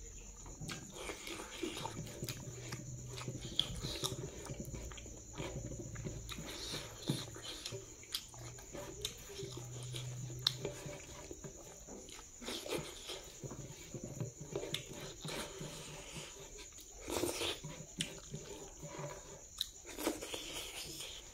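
Close-up eating sounds of someone eating rice and pork fat with his fingers: chewing, lip smacks and small clicks, with the hand scraping leftovers across the plate.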